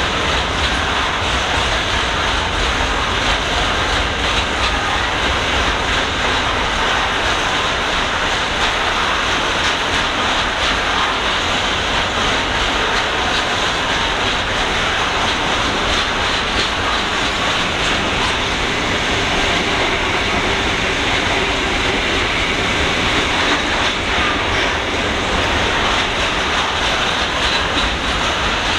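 Freight train rolling steadily past, its wagons' wheels running and clattering on the rails in an unbroken, even noise.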